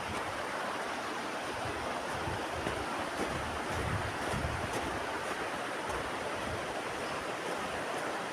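Steady rushing of a fast winter mountain river, with a few soft low gusts of wind on the microphone.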